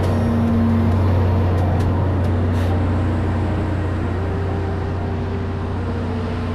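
Alishan Forest Railway train's diesel locomotive running with a steady, loud low drone.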